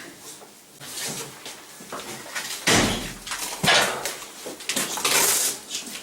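A series of thuds and rustling handling noises. The heaviest thud comes a little under halfway through, a sharp knock about a second later, and a hissy rustle near the end.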